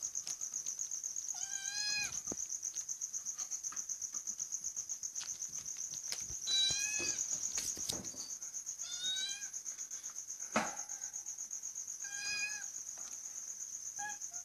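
A cat meowing four times in short, pitched calls, over a steady high, fast-pulsing trill of crickets. A single sharp click comes about ten seconds in.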